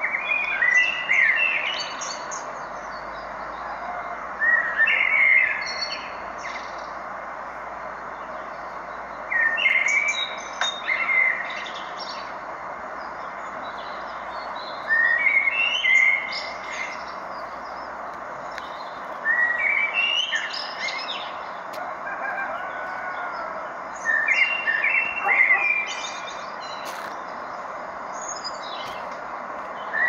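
A songbird singing short phrases of about two seconds, repeated every five seconds or so, over a steady background hiss.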